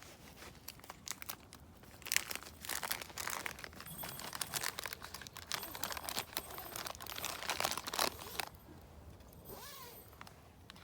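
Dry crinkling and tearing with sharp little snaps as dry kindling is handled and broken. It is busiest for several seconds in the middle and eases off near the end.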